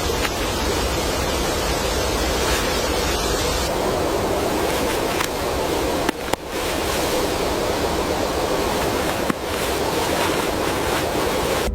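A steady, even rushing noise like running water or surf, with brief dips in level about six and nine seconds in.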